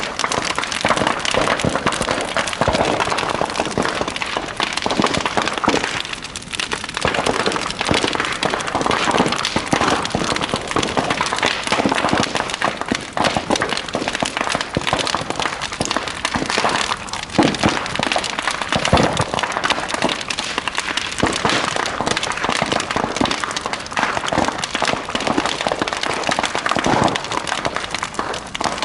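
Large bonfire burning, with a dense, continuous crackling and frequent sharp pops and cracks from the burning wood.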